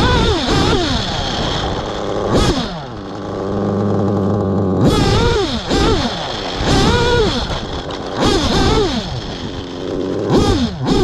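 Small nitro RC engine, a modified one, revving hard and falling back again and again. It settles into a steadier low running note between about one and five seconds in.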